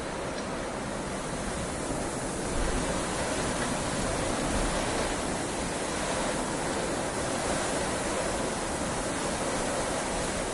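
Heavy rain falling steadily, a dense even hiss that swells slightly a couple of seconds in.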